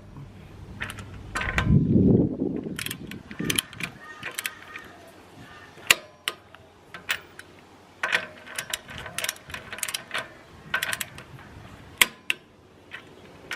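Hand ratchet wrench clicking in short, irregular runs as bolts on the rear wheel and brake caliper are tightened, with a few metallic knocks.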